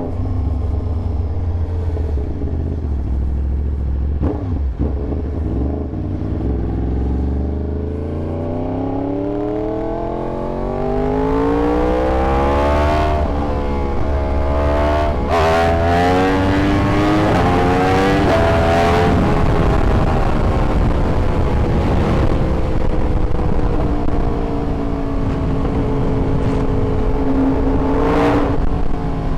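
Yamaha YZF-R1 inline-four engine under way, its revs climbing steadily for about ten seconds. Around the middle the pitch jumps several times in quick succession, then the revs ease down and hold steady near the end.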